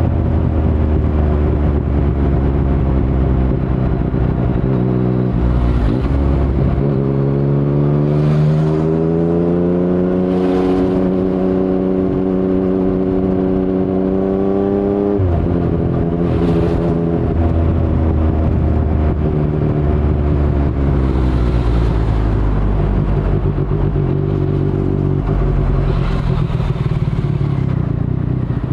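2019 Yamaha MT-09's 847 cc inline-three running through an Akrapovic carbon full-system exhaust with no dB killer, while riding. The engine note eases, then climbs steadily from about seven seconds in for roughly eight seconds as the bike accelerates in one gear, drops sharply when the throttle is shut, and falls away slowly as the bike slows. A low wind rumble sits under it.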